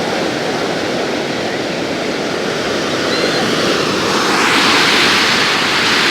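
Ocean surf breaking at the water's edge: a steady wash of waves, with a rushing swell of a breaking wave about four seconds in.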